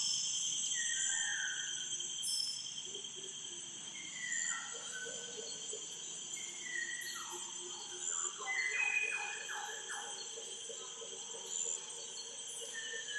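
Rainforest ambience: insects shrilling steadily at a high pitch, with birds giving short falling calls every second or two and a quick run of repeated notes about two-thirds of the way through.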